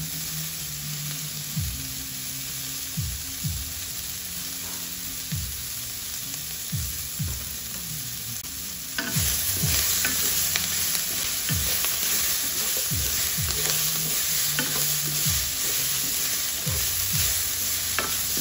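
Sliced onion and green bell pepper sizzling in hot oil in a nonstick wok while a wooden spatula stirs and scrapes them. The sizzle gets louder about halfway through.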